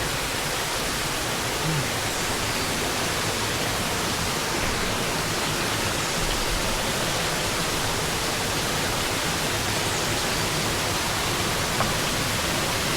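Small waterfall rushing: a steady wash of falling water.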